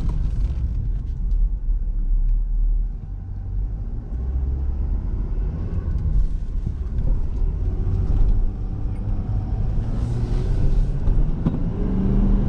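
Steady low rumble of a 2019 Ford F-250 Super Duty driving, heard inside the cab: its 6.7-litre Power Stroke turbo-diesel V8 running under way along with road noise.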